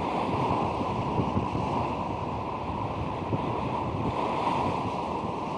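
Strong wind buffeting the microphone in uneven gusts, over the steady wash of surf on a cobble beach.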